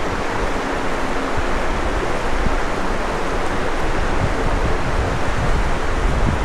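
Ocean surf washing steadily on the beach, mixed with wind rumbling on the microphone.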